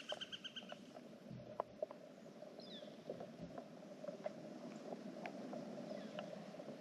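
Quiet outdoor ambience: faint scattered ticks and clicks, with a few short high chirps. A rapid pulsed trill fades out within the first second.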